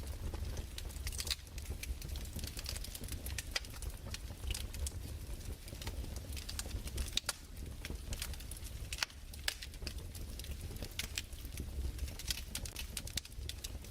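Wood fire crackling: irregular pops and snaps, some in quick clusters, over a low steady rumble.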